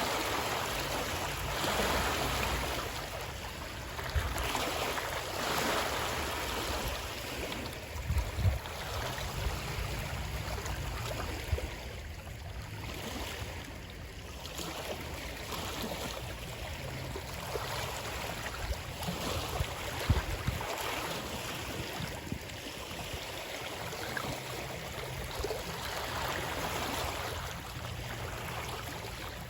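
Water rushing and splashing in a continuous wash that swells and eases every couple of seconds, with a few low thumps now and then.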